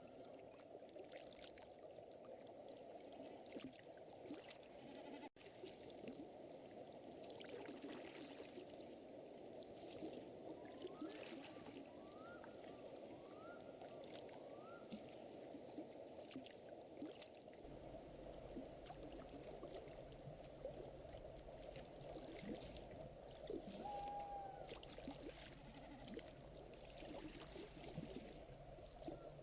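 Faint nature ambience: a soft water trickle with scattered crackles and pops of a wood fire. Around the middle come four short rising animal calls, and near the end a brief held call.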